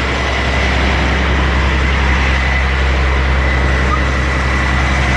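Semi-truck's diesel engine idling steadily, heard close with a thin steady high tone over the low engine hum.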